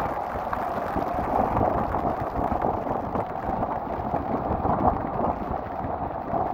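Strong wind buffeting the microphone over rough sea surf, a steady loud rushing noise with a gusting low rumble.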